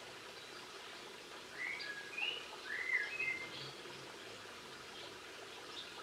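A songbird sings one short phrase of a few clear notes that curve up and down in pitch, starting about one and a half seconds in and lasting about two seconds, over a faint steady background hiss.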